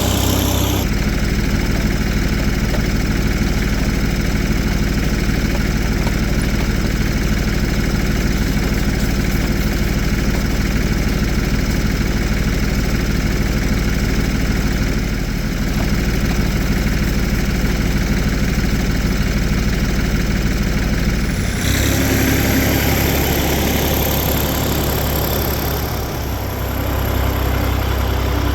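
Tractor engine running steadily, with a change in its sound about three-quarters of the way through.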